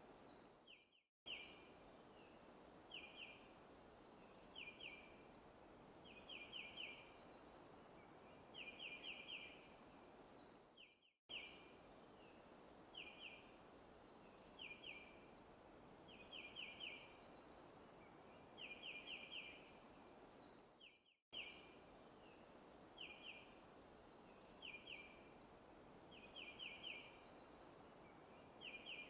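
Faint forest ambience: a bird repeating short chirp phrases of two to four quick notes every second or two over a steady hiss. The sound drops out briefly three times, about ten seconds apart.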